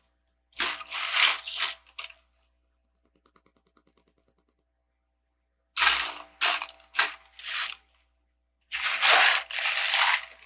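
Loose plastic Lego pieces rattling and clattering as a hand rummages through them, in three bouts of a second or two each.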